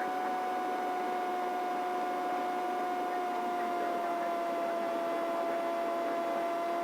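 Helicopter cabin noise heard through the aircraft intercom: a steady whine with a high tone that sags slightly in pitch midway and recovers, over a constant hiss.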